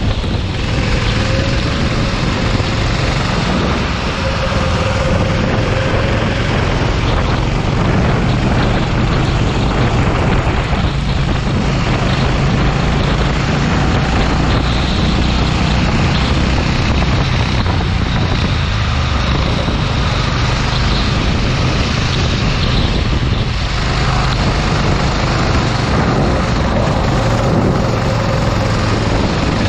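Go-kart engine running continuously at racing speed, a loud steady drone whose pitch rises and falls a little, under a constant rushing noise.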